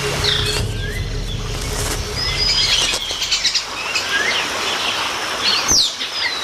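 Tropical rainforest ambience of many birds calling: assorted short chirps and whistles, with a fast pulsing trill about three seconds in. A low hum under it fades out by about halfway, and a single sharp knock-like sound comes near the end.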